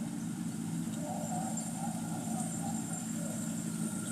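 Wheat combine harvester running steadily while cutting and threshing, a constant low drone with a steady high whine over it.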